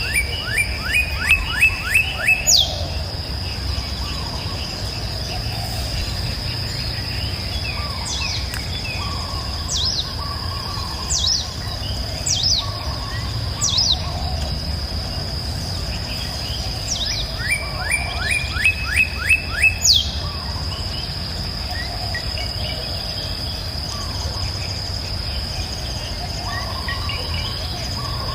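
Songbirds singing: a trill of about seven quick rising notes at the start and again about two-thirds of the way in, with single sharp whistled notes scattered between. A steady high-pitched insect drone and the low rush of river water run underneath.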